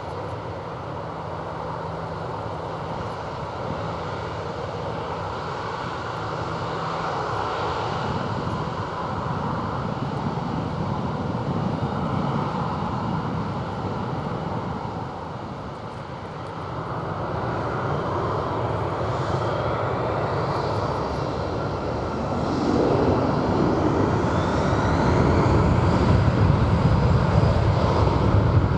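Jet engines of an Airbus A340-313X, four CFM56 turbofans, running and growing steadily louder. A whine rises in pitch over the second half.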